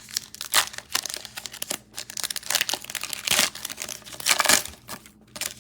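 Plastic trading card pack wrapper crinkling and tearing as it is opened and handled, in a series of short rustling bursts.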